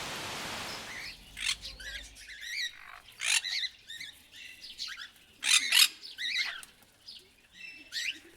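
A steady rushing noise cuts off about a second in. It gives way to a string of bird calls: short chirps and warbling squawks, several of them loud, at irregular intervals.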